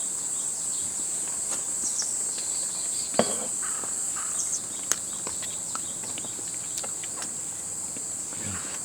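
A steady high-pitched insect chorus, with a few small clicks and knocks, the loudest about three seconds in and again about five seconds in.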